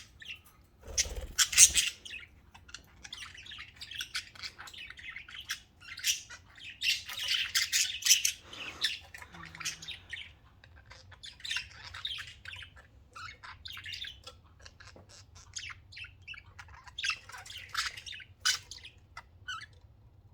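Pet budgerigars chattering and squawking: a run of short, high chirps and harsher squawks, in busier clusters with quieter gaps between them.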